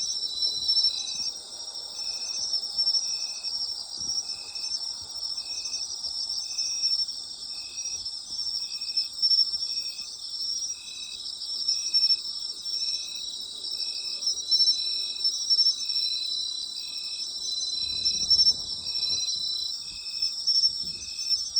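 A chorus of autumn night insects: several continuous high-pitched trills, over which one insect chirps at a steady rhythm, roughly once a second.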